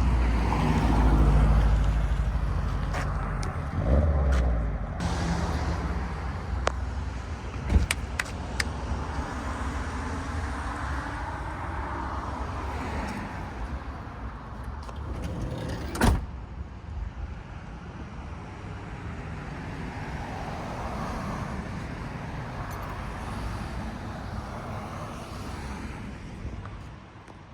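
A car or other road vehicle running, with a low rumble that is strongest in the first few seconds and then eases to a steady noise. Sharp knocks or clicks stand out about 8 seconds in and again about 16 seconds in.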